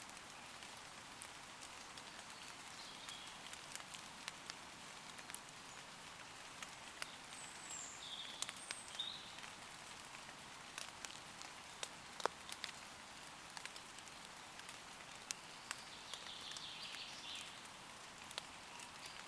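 Steady light rain falling on forest leaves, with many scattered individual drops ticking. A few short bird chirps come through about eight seconds in and again a little later.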